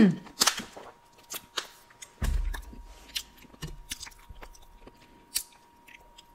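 Close-miked chewing of boneless buffalo chicken wings: a string of sharp mouth clicks, opening with a loud sound that drops in pitch and with a low thump about two seconds in.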